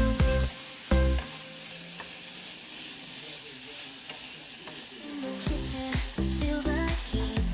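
Food sizzling in a hot pan, a steady frying hiss. Beat-driven music plays over it at the start and comes back near the end.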